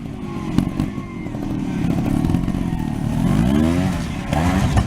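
300cc two-stroke trials motorcycle engine being blipped, then revved hard with a steep rise in pitch about three seconds in as the bike launches up a ramp, with a few knocks near the end.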